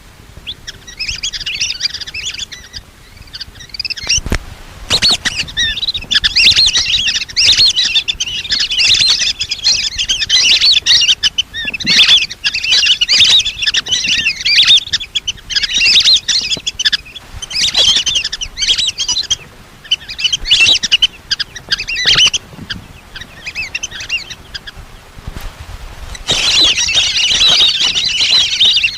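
A flock of lesser whistling ducks calling: many high, overlapping whistles in bursts with short lulls, densest near the end. Two brief knocks come about four and five seconds in.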